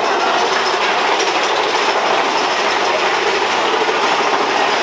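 Mine-train roller coaster cars running on their track: a steady, loud rattle of wheels and cars.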